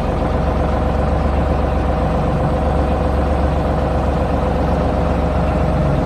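Heavy vehicle engine idling steadily, a deep low sound that holds level throughout.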